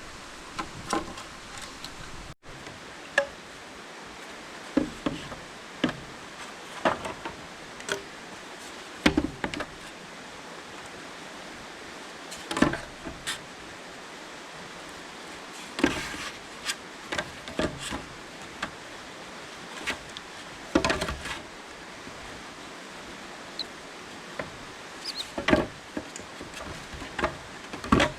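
Irregular sharp knocks and cracks of bamboo being chopped and worked, one every second or few, sometimes in quick clusters, over a steady hiss of rainforest ambience.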